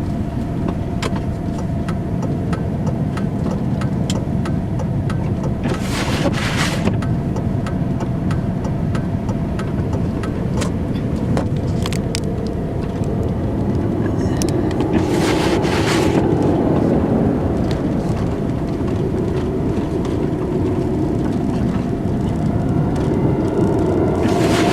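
Truck driving on a snowy road, heard from inside the cab: a steady low rumble of engine and road noise. Three short swishes come about nine seconds apart.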